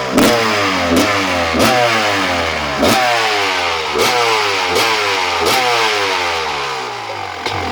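250 cc two-stroke motocross engine blipped repeatedly: about seven sharp throttle blips, each revving up and falling back toward idle, before settling to idle near the end.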